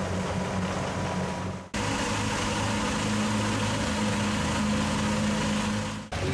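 Off-road vehicle engine running steadily at low revs, with a brief drop-out about one and a half seconds in and again near the end.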